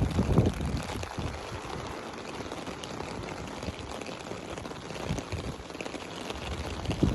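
Rain falling steadily, an even hiss, with wind buffeting the microphone in the first second.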